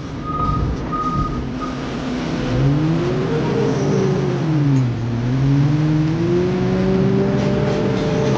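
Heavy construction machine's diesel engine revving under load: its pitch climbs about two and a half seconds in, falls away by five seconds, then rises again and holds high. A high beeping repeats about twice a second during the first second and a half.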